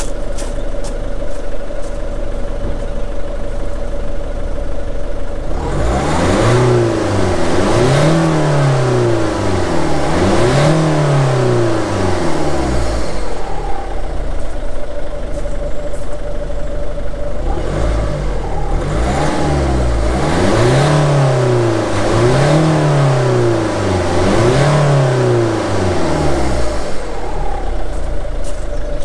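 Mazda 3 1.6 diesel engine heard at the exhaust tailpipe, idling and then free-revved in two sets of repeated blips, the first about six seconds in and the second about eighteen seconds in. Each set rises and falls several times before the engine drops back to idle. The revving is a check for exhaust smoke during a hydrogen carbon-clean treatment for a blocked DPF and EGR.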